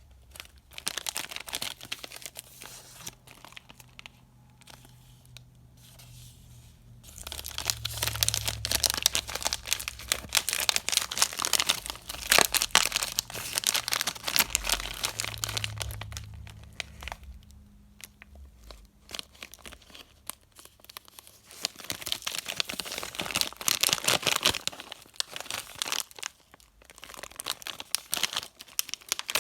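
Candy wrappers being crinkled and torn open by hand, in several spells of dense crackling with short pauses between them.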